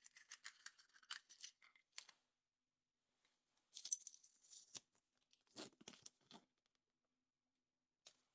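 Foil wrapper of a chocolate surprise egg crinkling and tearing as it is peeled off, in three short spells of crisp rustling.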